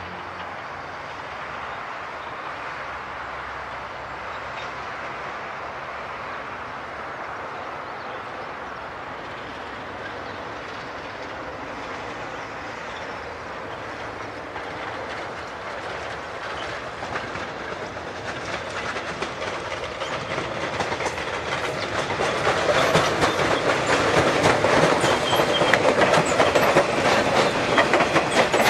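Metrorail electric multiple-unit commuter train approaching and passing close by, its running noise growing steadily louder through the second half. In the last several seconds it is loud, with the clickety-clack of the wheels going over rail joints.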